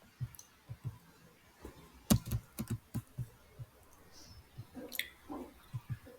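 Irregular soft taps and clicks, with a few sharper clicks around the middle.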